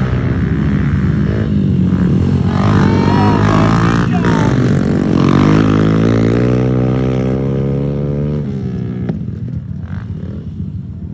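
Several small pit bike engines racing on a dirt track, one revving higher and higher as it accelerates for several seconds, then dropping off suddenly as the throttle is let go.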